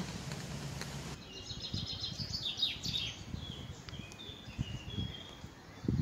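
Small songbirds singing, with many short high chirps and twitters from about a second in, over a low steady outdoor rumble.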